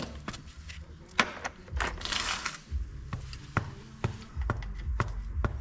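Irregular metallic clicks and clatter of hand tools being handled during oil-change work, with a brief rasping rustle about two seconds in.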